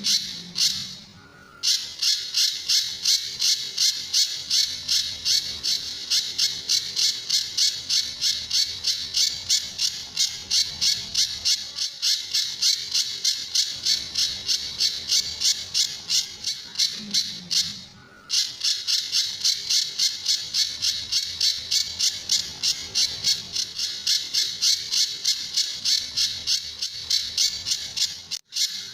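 Pijantur songbird calling in a rapid, even train of high-pitched notes, about four a second, the fast repeated 'tembakan' call that bird keepers prize. The train breaks off briefly about a second in and again about two-thirds of the way through.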